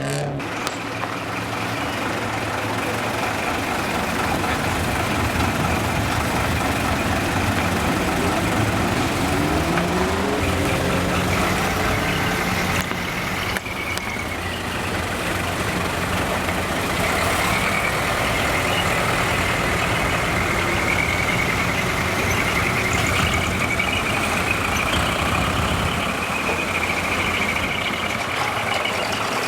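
Vehicle engines running steadily, one revving up with a rising pitch about eight to eleven seconds in. A high steady tone joins about halfway through.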